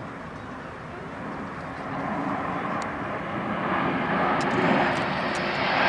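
A formation of BAE Hawk T1 jets approaching, their engine noise growing steadily louder and brighter.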